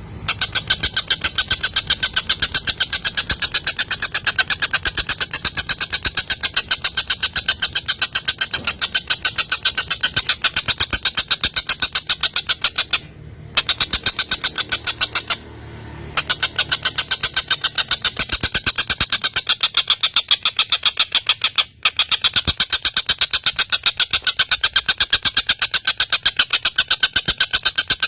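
Tengkek buto kingfisher giving its fast, harsh rattling chatter ('ngekek'): an even run of many rapid notes that breaks off briefly three times and picks up again.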